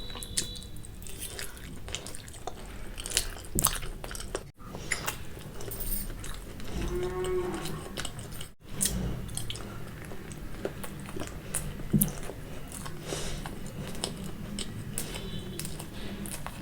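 Close-up mouth sounds of someone eating spicy Maggi noodles and boiled egg: chewing with many small wet clicks and smacks. A short hummed "mmm" comes about seven seconds in.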